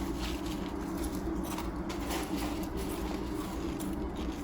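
Steady low hum with a hiss over it.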